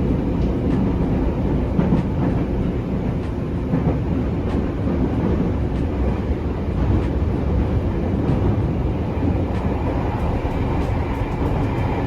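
Steady running noise of a Japanese passenger train carriage in motion, heard from inside: a continuous low rumble from wheels on rails and the running gear, with faint scattered ticks.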